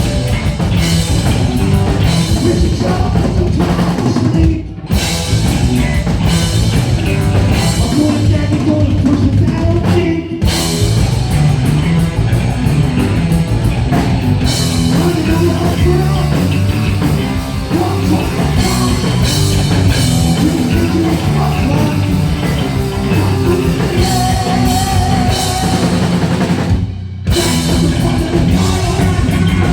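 Heavy metal band playing live: distorted electric guitars, bass and pounding drum kit. The band stops dead for a split second about 5, 10 and 27 seconds in, then crashes back in.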